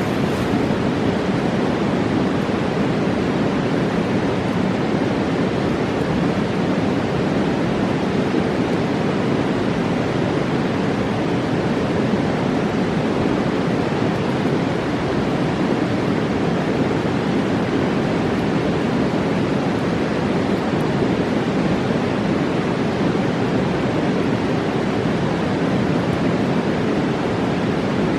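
Fast mountain river rushing over rocks: a steady, unbroken roar with no letup.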